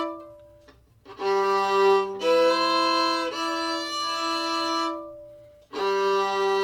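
Fiddle playing double stops: a bowed low drone on the open G string held under a changing upper note, in two phrases with a short break between them.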